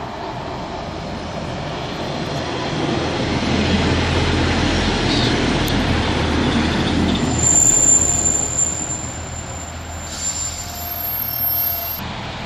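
Northern Class 142 Pacer, a two-car four-wheeled diesel railbus, running into the platform and slowing. Its rumble builds to a peak around the middle, then a high, steady wheel squeal sets in for a couple of seconds, followed by a short hiss near the end.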